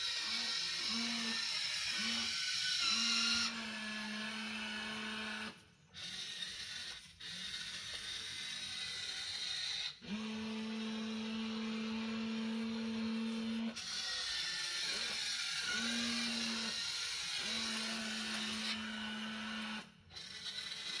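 Small electric gear motors of a WLtoys RC toy excavator running in spurts: a steady whine over a gear whir, changing as different motors start and stop. It cuts out briefly three times.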